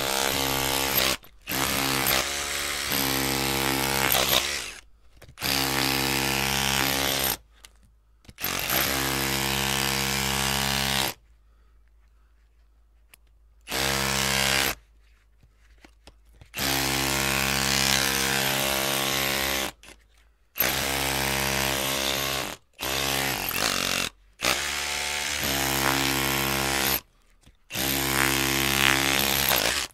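Electric drill run in repeated bursts of one to three seconds, each with a steady motor whine and the hiss of the bit, stopping briefly between bursts, with a longer pause about eleven seconds in.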